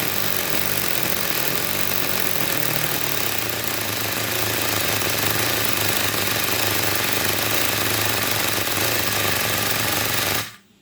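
Three-cylinder compressed-air engine running steadily: a loud hiss of exhausting air over a fast low chugging from the cylinders. The sound cuts off suddenly near the end.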